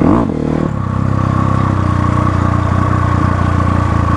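Motorcycle engine running steadily, with a brief rev rising and falling in pitch right at the start.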